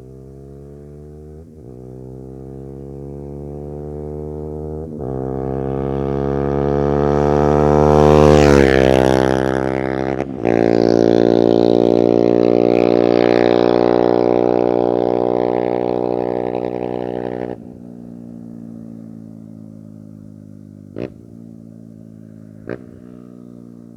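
TVS Apache RR 310's single-cylinder engine through a Yoshimura slip-on exhaust, passing at speed: it grows louder as it approaches and its pitch drops sharply as it goes by. A loud, raspy stretch follows that cuts off suddenly about three-quarters of the way through, leaving a fainter steady hum.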